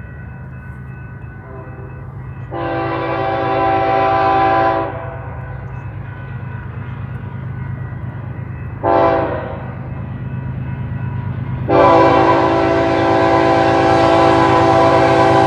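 Approaching BNSF freight locomotive sounding its multi-chime air horn three times: long, short, then long, over the steady rumble of the diesel engine.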